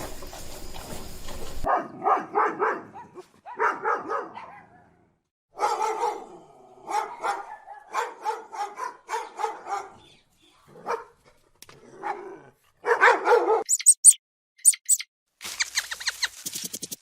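A dog barking in quick runs of short barks, with pauses between the runs. A few high, thin chirps come near the end.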